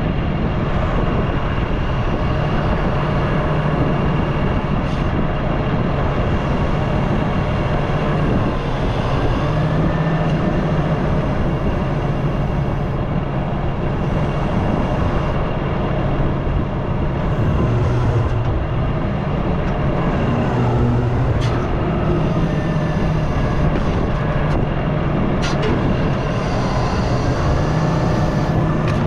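Diesel engine of heavy equipment working a hydraulic grapple saw, running steadily with its note rising and falling under changing load, a faint high hydraulic whine over it, and a few sharp knocks.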